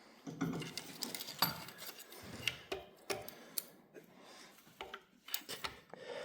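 Irregular metallic clicks, taps and clinks of hand tools and small steel engine parts being handled, as a connecting rod cap is taken off a small-block Chevy 350 to inspect the rod bearing.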